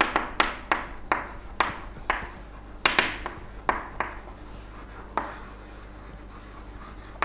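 Writing by hand on a surface: a series of short sharp taps and strokes, two or three a second at first, thinning out after about four seconds.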